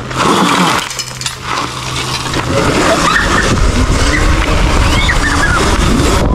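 Dirt bike riding, a loud rushing noise with short rising and falling whines from about two and a half seconds in.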